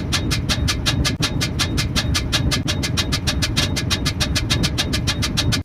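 Steady low mechanical rumble with rapid, even ticking, about seven ticks a second.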